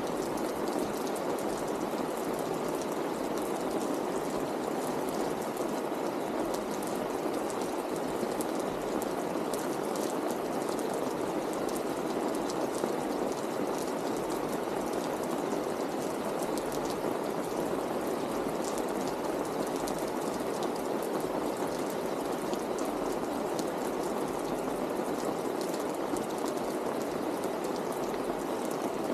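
Steady rain falling: an even hiss with the light ticks of individual drops, unchanging throughout.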